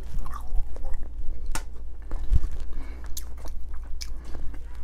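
Close-miked chewing of a sauce-dipped crinkle-cut French fry, with several sharp mouth clicks.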